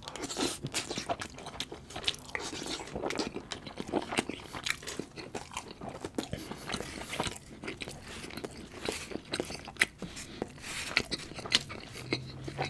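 Close-miked eating sounds: a man chewing a forkful of butter chicken and rice, then biting into and chewing grilled naan, with many sharp, irregular mouth clicks and smacks.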